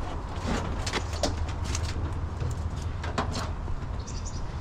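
Steady low vehicle rumble with scattered light knocks and clatter, and a brief high bird chirping about four seconds in.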